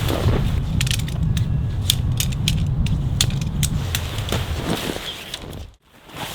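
Irregular sharp clicks and ratcheting rattles of gear being handled, over a low wind rumble on the microphone. The rumble fades about four seconds in, and the sound drops out briefly near the end.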